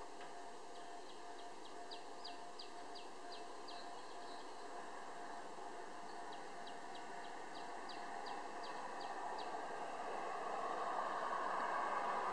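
A bird gives two runs of short, high, evenly spaced notes, about three a second, each run lasting about three seconds, over a faint steady hum. Near the end, the sound of an approaching vehicle grows steadily louder and becomes the loudest thing heard.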